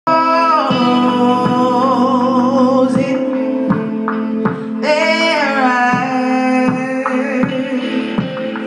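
Live electronic music: a long held, wavering vocal melody that slides downward about five seconds in, over a steady beat of roughly one stroke every three-quarters of a second.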